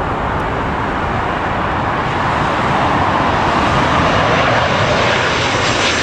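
Jet airliner engines running loud and steady as the aircraft passes close by, growing slightly louder towards the middle. Wind buffets the microphone underneath.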